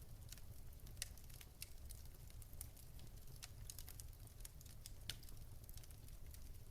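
Wood fire crackling softly: irregular sharp pops and snaps, one stronger snap about five seconds in, over a low steady rumble.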